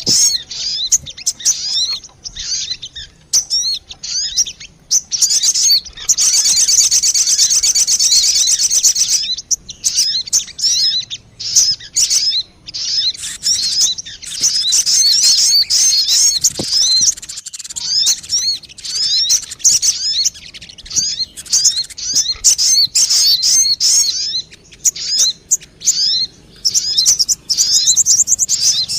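Sogon birds calling in a lure recording: rapid high chirps and sweeping notes crowding over one another, with stretches of continuous rapid trilling.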